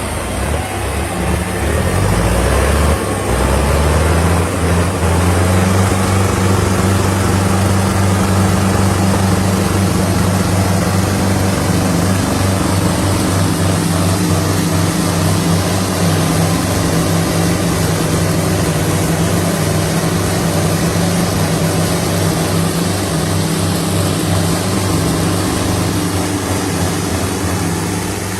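Sonalika tractor diesel engines revving up over the first few seconds, then running steadily at high revs under heavy load as the tractors pull against each other in a tug-of-war.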